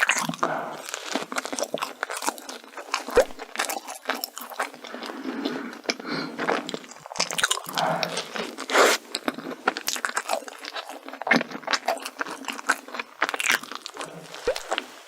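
Close-miked eating of crunchy food: a string of irregular crisp crunches and bites with chewing in between, the sharpest snaps a few seconds in and again near the middle.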